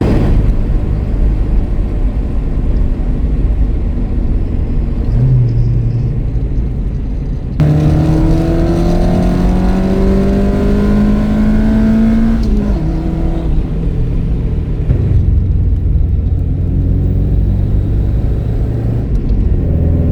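Classic car engines running, in several cuts. First a steady engine sound, then one engine picking up speed in a long rising pitch for about five seconds before it eases off, then another engine running steadily.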